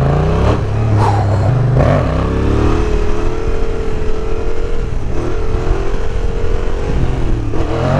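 Yamaha MT-07's parallel-twin engine through a newly fitted aftermarket exhaust, revving up about two seconds in and then pulling at fairly steady high revs as the bike is ridden.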